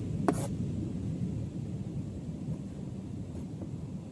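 Steady low outdoor rumble, with one sharp click about a third of a second in.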